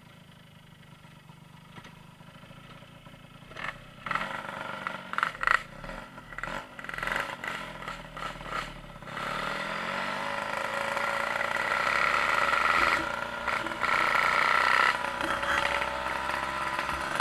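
An engine being started: several seconds of irregular sputtering bursts, then about nine seconds in it catches, rises in pitch and settles into steady running.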